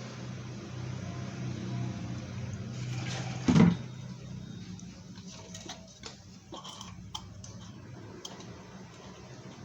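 Workshop handling sounds while an engine is taken apart: one loud knock about three and a half seconds in, then scattered light clicks and taps, over a steady low hum.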